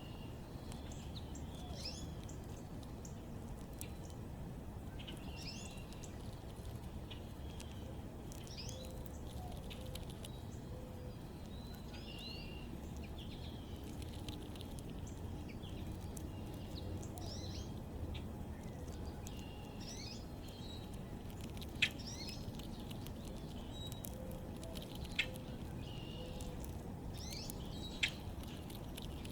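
Small backyard birds giving short, repeated chirps and calls over a steady low background rumble, with a few sharp clicks in the second half.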